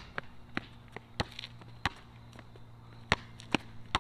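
A basketball being dribbled on a hard court: sharp bounces at an uneven pace, seven or so in all.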